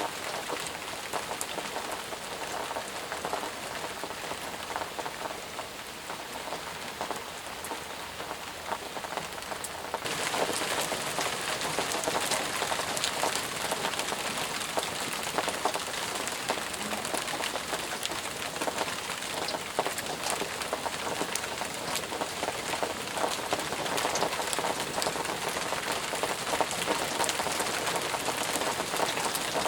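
Steady rain falling, with many separate drops ticking through an even hiss. About ten seconds in, it suddenly turns louder and brighter, like heavier rain.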